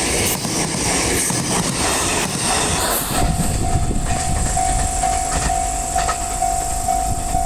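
JR East E653-series electric train passing over a level crossing: a loud, steady rumble of wheels on rail that grows heavier about three seconds in. From then on a steady mid-pitched tone sounds in quick repeated pulses, typical of the crossing's warning bell.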